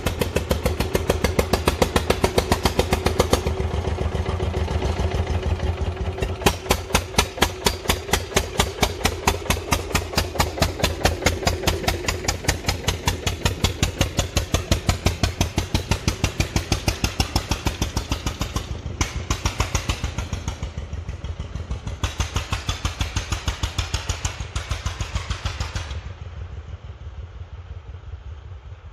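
Tractor engine running with a steady, evenly spaced beat of distinct firing strokes; it gets quieter and duller near the end.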